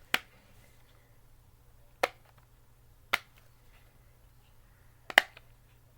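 Simple Dimple fidget toy's silicone bubbles being pushed through, each giving a sharp pop: single pops about a second or two apart, then two in quick succession near the end.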